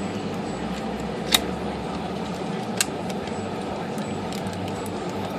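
Two sharp metallic clicks, with a few faint ticks between, as a tool works a nut on the IBM Selectric typewriter's mechanism, over a steady background hum.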